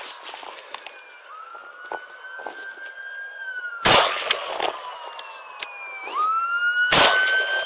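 Police car sirens wailing, their pitch sweeping up and down, while loud gunshots crack out: one about four seconds in with a second just after, and another near the end.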